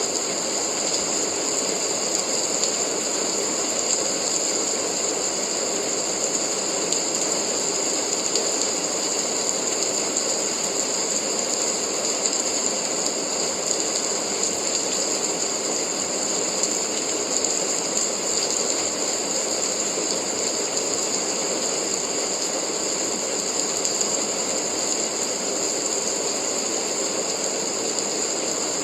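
Steady rain falling, a dense even patter with a hiss.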